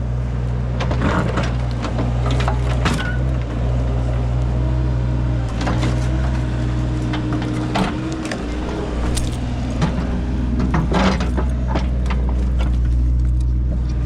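An engine runs steadily throughout, with scattered clanks and scrapes as buried debris and scrap metal are dug out.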